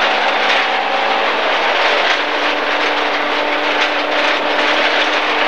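MG ZR rally car's 1.4-litre engine running hard, heard from inside the cabin under a loud, steady rush of tyres and gravel on the stage; the engine note drops about two seconds in.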